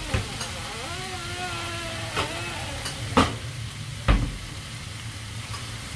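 Fishcake strips sizzling steadily in a frying pan, with a few sharp knocks, the loudest about three seconds in.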